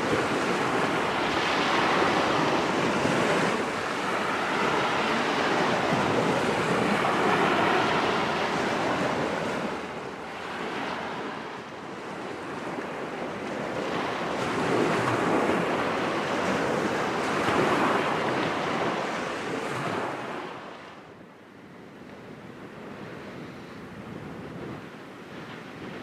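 Waves washing on the shore with wind, an even rushing noise that swells and eases every few seconds and turns quieter about three-quarters of the way through.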